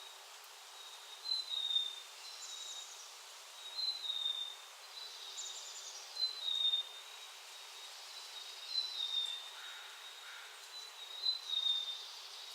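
A bird calling over and over: a short, high, slightly falling note about every two and a half seconds, with higher chirps in between. A steady faint hiss runs underneath.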